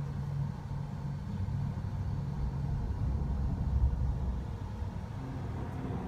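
Low, steady engine drone with a rumble, a plane flying overhead as heard from the ground. A fainter, higher hum joins about five seconds in.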